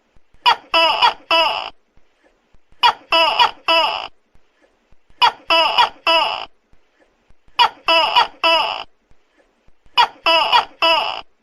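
Tokay gecko calling loudly: bursts of a short lead-in followed by three strong calls, the burst repeating evenly about every two and a half seconds, five times.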